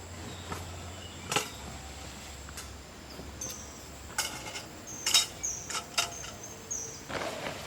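Outdoor ambience with a steady high insect drone, a few short chirps, and several sharp knocks and clatters, the loudest near the middle and end.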